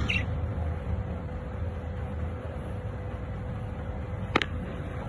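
Steady low background rumble with a brief, high budgerigar chirp right at the start and a single sharp click about four seconds in.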